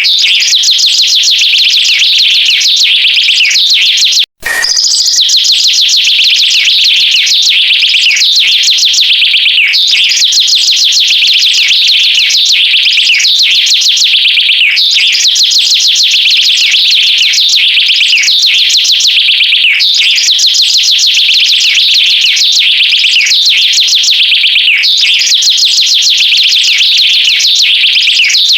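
Loud, rapid high-pitched bird chirping in near-identical phrases that repeat about every five seconds, like a loop, with a brief cut about four seconds in.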